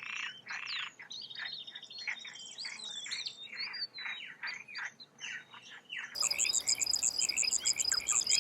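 Birds calling with many quick chirps and chattering notes. About six seconds in, the sound changes abruptly to insects shrilling in a fast, even pulse, with bird calls still over it.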